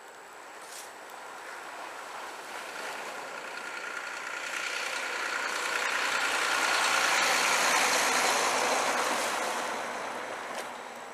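A vehicle passing on a snowy, slushy street: a wet tyre hiss that swells gradually, is loudest about seven to eight seconds in, then fades away.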